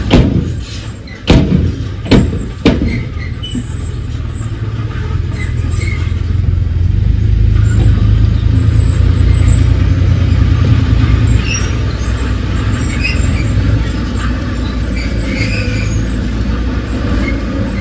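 Heavy diesel earthmoving machine running steadily with a low rumble, after four sharp clanks in the first three seconds.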